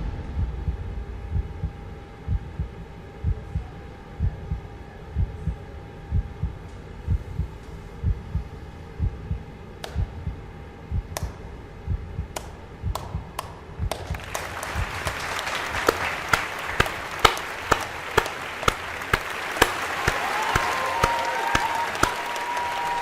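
Slow, regular low thumps like a heartbeat, about one a second. From about halfway in, applause with sharp claps joins and keeps going.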